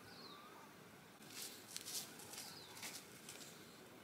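Faint bird chirps with short high glides, and a few brief crackling rustles from about one and a half to three seconds in.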